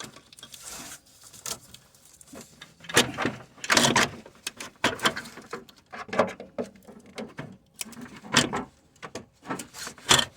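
Irregular knocks, clicks and rustling of a car's radiator cooling fan assembly being handled and pushed down into its mounting slots, with the loudest knocks about three to four seconds in and again near eight seconds.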